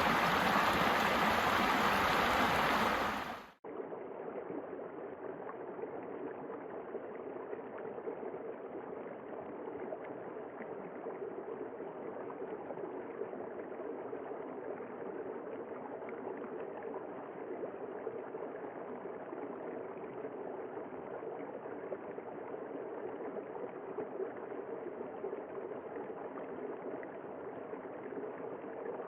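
Flowing water, like a stream: a bright, full rushing sound that cuts off suddenly about three and a half seconds in, followed by a duller, steady flow.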